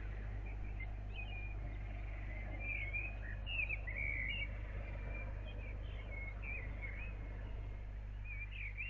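Several small birds chirping and twittering in short, rapid phrases over a steady low hum.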